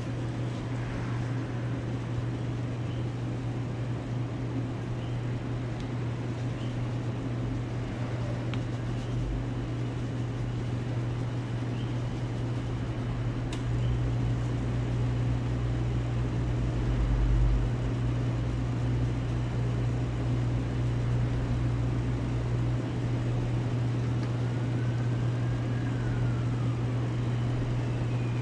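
Steady low mechanical hum with a constant background hiss. Near the end a siren starts to wail.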